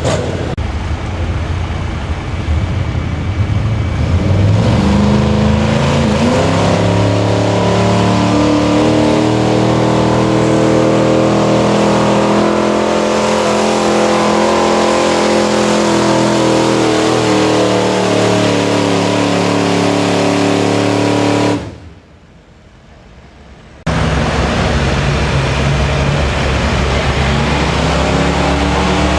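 Pulling truck's engine at full throttle hauling the weight-transfer sled, its pitch climbing over the first several seconds, then slowly sagging as the load builds. About 22 seconds in the sound cuts out for two seconds, then engine noise comes back.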